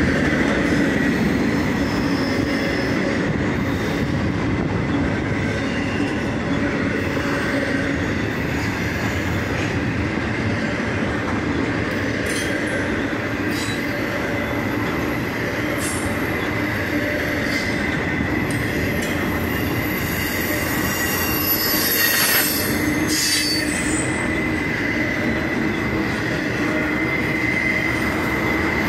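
CSX intermodal freight train's double-stack well cars rolling past steadily, with a thin high wheel squeal held throughout and scattered clicks from the wheels. The squeal and noise flare up briefly about 22 seconds in.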